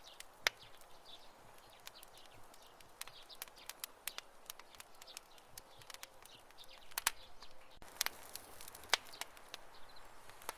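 Wood campfire crackling, with irregular sharp pops over a soft hiss. A few louder pops come about half a second in, around seven seconds and near nine seconds.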